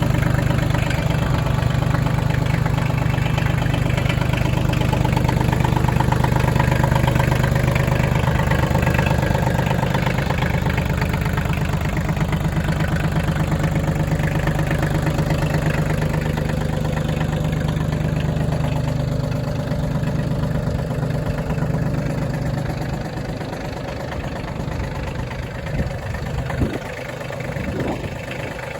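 Kioti CX2510 compact tractor's three-cylinder diesel engine running steadily. It eases off a little in the last few seconds, with a couple of short knocks near the end.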